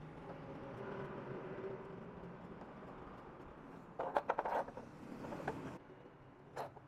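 Handling noises over a steady low background: a quick cluster of clicks and knocks about four seconds in, with a short hiss that stops abruptly almost two seconds later, then a single click near the end.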